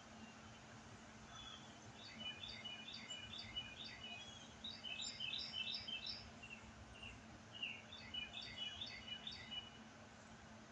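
A songbird singing three runs of quick, evenly repeated notes over a faint, steady low hum.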